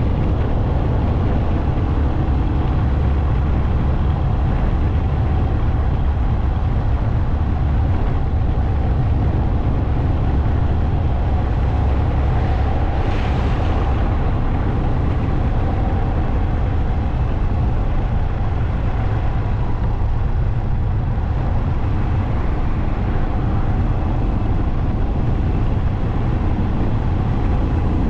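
Motorcycle on the move: a steady engine drone under a heavy low rumble of wind on the microphone, with a brief swell of hiss about halfway through.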